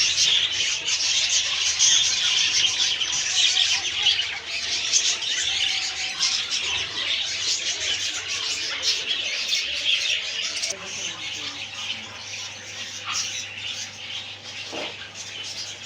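A loud, dense chorus of many caged small birds chirping and squawking together in a bird shop, easing off a little after about ten seconds.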